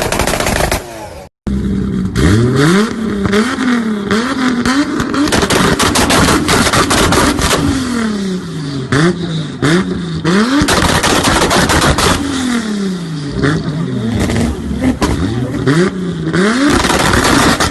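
Engine revved up and down over and over, with rapid exhaust pops and crackles like gunfire on every rev. A brief cut to silence about a second in.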